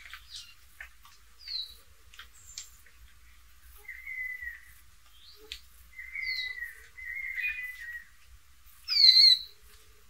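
Birds calling: scattered short chirps and clicks with several slurred whistles, and a loud, sharp descending whistle about nine seconds in.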